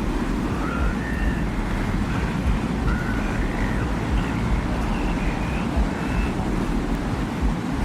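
Steady low rumbling wind in a desert soundscape, with faint, short whistling tones wavering above it.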